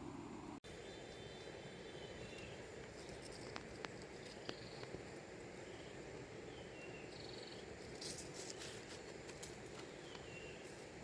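Quiet outdoor ambience: a steady hiss with short, high, falling chirps every few seconds, a few sharp clicks around the middle, and a brief crackling patch about eight seconds in. The sound drops out for an instant just after the start, at an edit cut.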